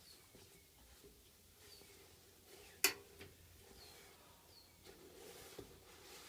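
Faint, high chirps of a bird in the background, a few of them spaced a second or two apart, and a single sharp click about three seconds in.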